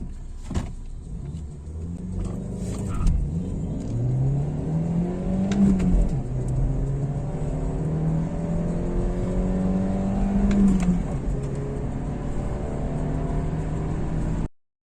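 Audi A3 8P accelerating hard through the gears, its engine note climbing, falling twice at upshifts about six and eleven seconds in, then pulling on steadily.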